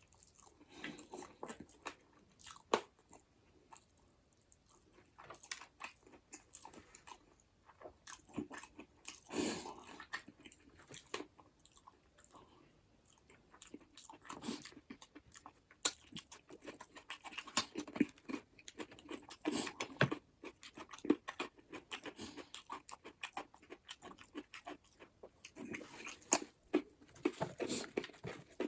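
Close-miked eating of buffalo bone marrow and noodles: chewing and biting in irregular short, wet clicks, with quieter pauses a few seconds in and near the middle.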